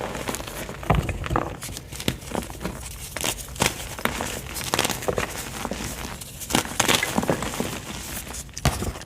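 White gym chalk being crushed, with irregular soft crunches and crumbling crackles.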